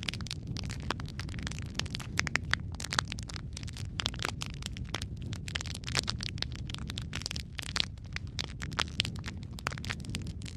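Wood fire crackling, dense irregular pops and snaps over a steady low rumble of the flames.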